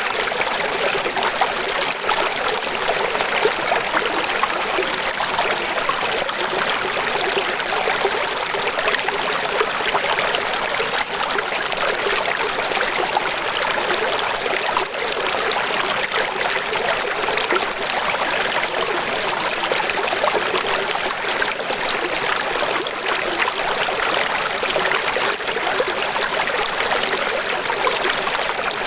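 Running water splashing and trickling steadily, without swells or pauses, with little bass in it.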